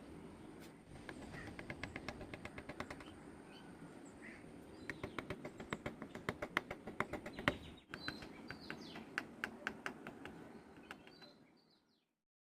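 Birds chirping in the background over runs of sharp, rapid clicks, about five or six a second, which fade out near the end.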